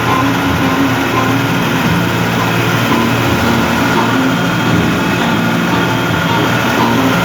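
New Holland 55-56 S tractor's diesel engine running steadily at an even speed.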